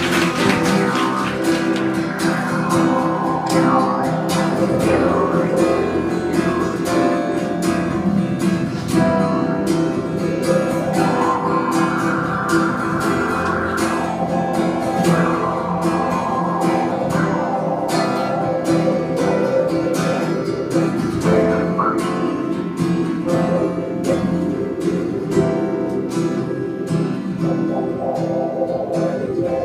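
Acoustic guitar playing a picked and strummed instrumental passage, live.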